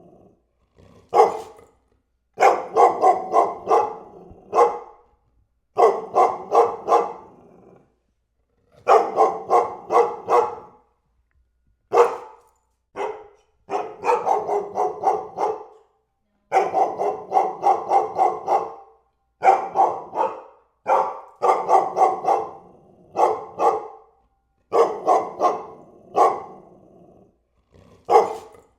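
A dog barking over and over in quick runs of several barks, with short pauses between the runs.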